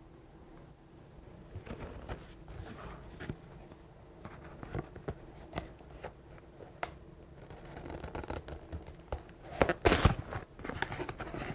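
Cardboard cereal box being torn open by hand: scattered scrapes and small rips, then a loud tearing rip about ten seconds in.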